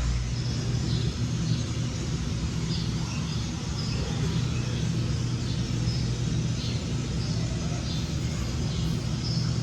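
A steady low machine-like hum, with faint short high-pitched chirps scattered through it.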